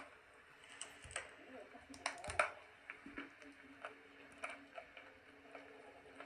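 Soap crunching close to the microphone: irregular crisp crackles and clicks, with a louder cluster of cracks about two seconds in.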